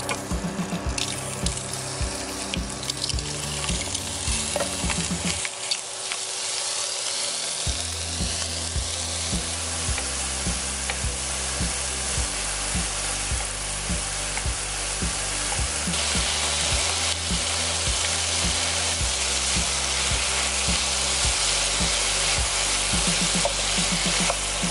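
Shrimp sizzling as they fry in hot olive oil in a frying pan, the sizzle getting louder about two-thirds of the way in, over background music with a steady beat.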